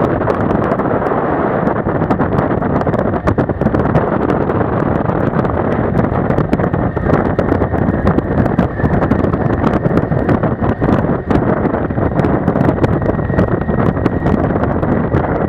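Wind buffeting hard on the microphone of a moving motorcycle, mixed with its engine and road noise, loud and steady throughout.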